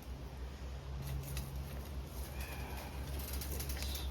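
Forge fire pot with its blower running while chain links heat: a steady low hum under a rush of air. A faint, short high call comes in about two and a half seconds in.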